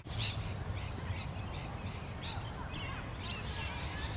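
Birds chirping and calling outdoors: a string of short, high, wavering calls over a steady low rumble.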